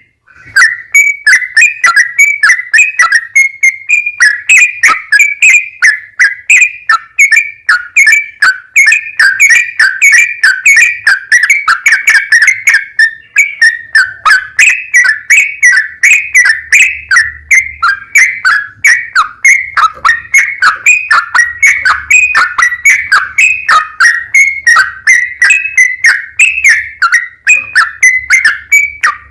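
Yellow-vented bulbul (trucukan) singing a long, unbroken run of rapid, bubbly whistled notes, several a second.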